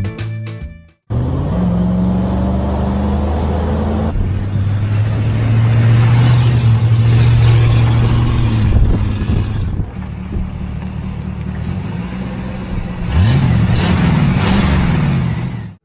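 Car engine running steadily, then revved up and back down twice near the end.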